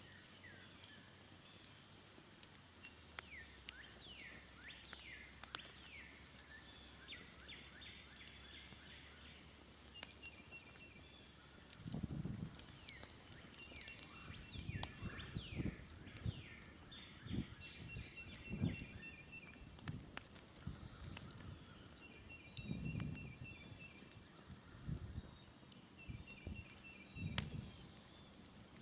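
Songbirds singing, with repeated fast trills and quick down-slurred notes, over the faint crackle of a smoldering campfire. From about twelve seconds in, irregular low thumps or rumbles come and go and are the loudest sounds.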